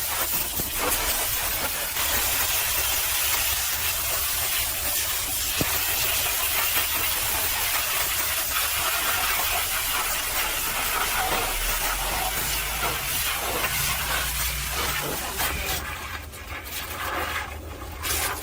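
Pressure washer spraying water in a steady hiss against a mud- and ice-caked truck. The spray drops away for a couple of seconds near the end, then comes back.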